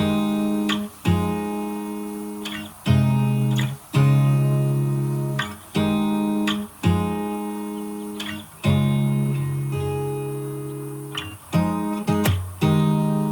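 Background music: strummed acoustic guitar chords, each struck sharply and ringing out to fade before the next, about one every one to two seconds.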